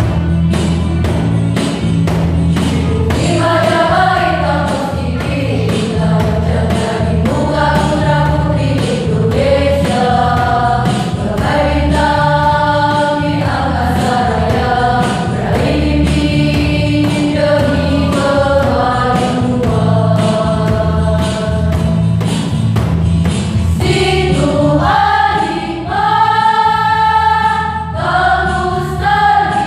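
A choir rehearsing an Indonesian song, singing held notes together over an instrumental accompaniment with a steady bass and an even beat of about two strokes a second.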